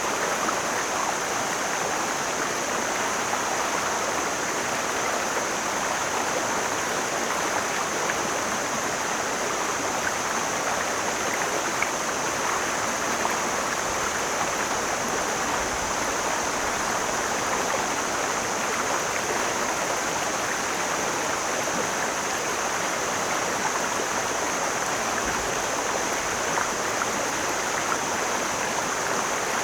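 Mountain stream flowing, a steady rush and babble of water.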